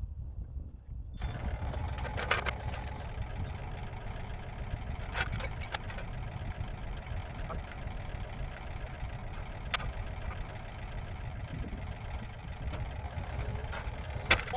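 Heavy-equipment engine running steadily while digging, working harder about a second in, with scattered sharp knocks.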